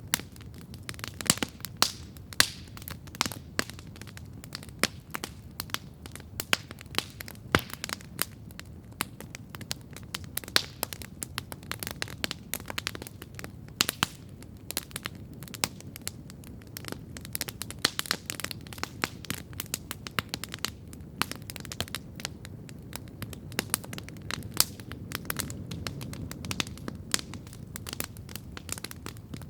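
Campfire burning and crackling steadily: irregular sharp pops and snaps of burning wood, several a second, over a steady low rush of the flames.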